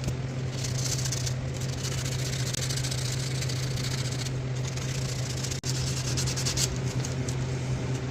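Rasping strokes of hand abrasive work smoothing the high spots on a two-stroke dirt bike's exhaust power valve, in three long passes over a steady low hum.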